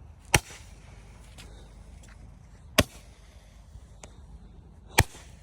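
Three sharp firework bangs, evenly spaced about two and a half seconds apart, as a multi-shot firework fires its shots one by one.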